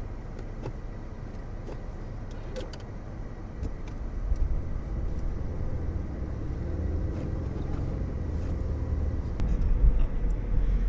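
Jeep Liberty's engine pulling in four-wheel-drive low while stuck in deep, icy snow. It runs steadily, then rises about four seconds in and again near the end as it is given more gas. It does not get the Jeep out.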